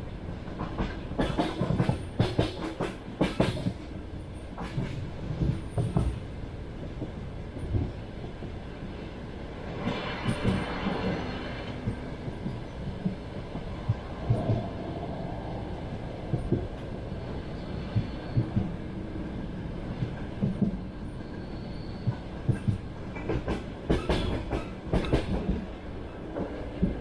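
Passenger train wheels clattering over rail joints under a steady rumble, as heard inside a moving carriage. Quick runs of clacks come near the start and again near the end, with a brief rushing noise about a third of the way through.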